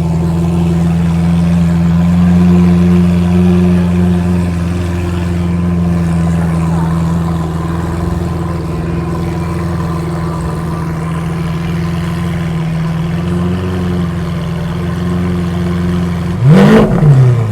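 Car engine idling steadily close by, then revved once near the end, the pitch rising sharply and falling back.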